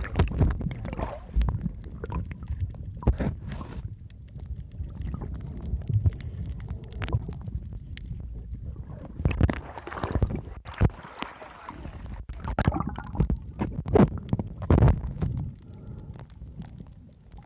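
Low rumbling water noise with gurgling and scattered knocks and splashes.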